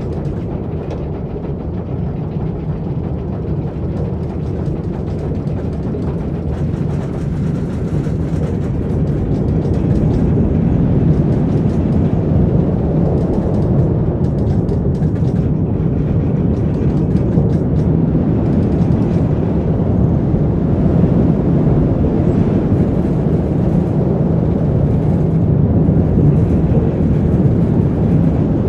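Roller coaster train rolling along its track: a steady low rumble that grows louder about ten seconds in.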